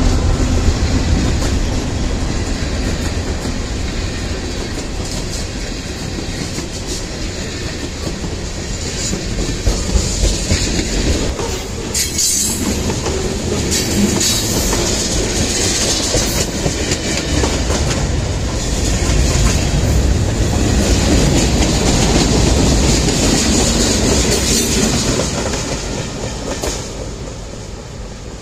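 A train passing close by, its wheels clacking over the rail joints, with a few brief high wheel squeals around the middle. The sound fades away over the last few seconds.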